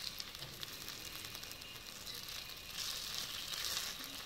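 Sorghum paniyaram batter frying in oil in a cast-iron paniyaram pan: a steady sizzle that grows louder for about a second, near three seconds in, while the cakes are being turned over with a skewer.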